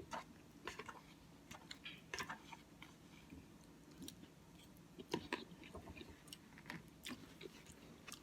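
Close-miked chewing of oatmeal with Cookie Crisp cereal: faint, irregular mouth clicks and small wet smacks.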